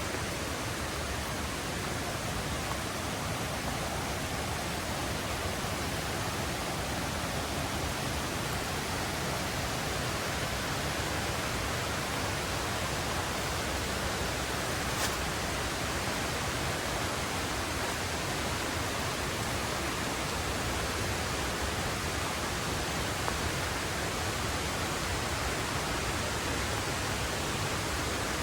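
Steady rushing of a mountain river, an even hiss of flowing water with no breaks. A single faint click about halfway through.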